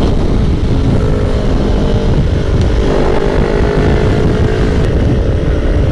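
Sport motorcycle engine running at a steady cruising speed under a rider, with wind rumble on the microphone.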